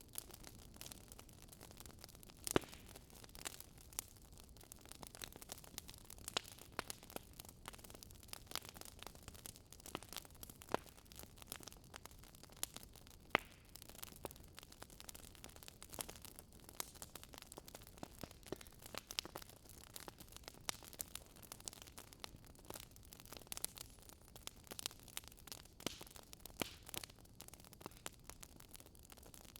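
Wood fire in a fireplace crackling, with irregular sharp pops and snaps over a faint hiss.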